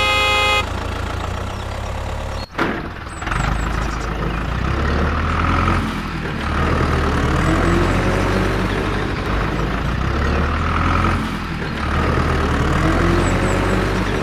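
A short horn toot, then a vehicle engine running steadily, its low sound swelling and easing every few seconds.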